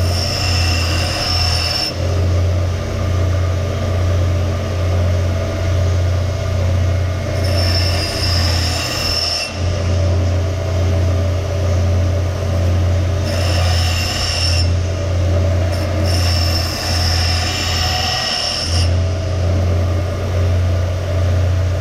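A power grinding tool runs steadily while the steel axe head is pressed against it four times, each pass a rasping grind of one to three seconds, as metal is taken off to reshape the head.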